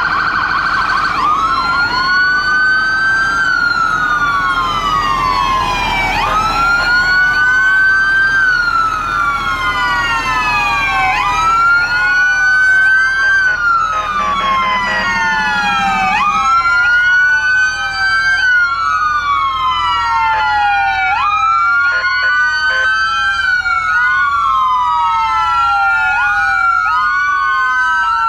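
Several fire truck electronic sirens wailing at once, each rising quickly and falling slowly about every two seconds, staggered against one another over a low engine rumble. A low steady tone sounds for about two seconds a little past the middle.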